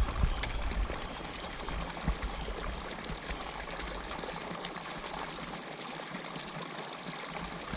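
Steady rush of rainwater runoff pouring into a pond at its inflow, with a single sharp click about half a second in.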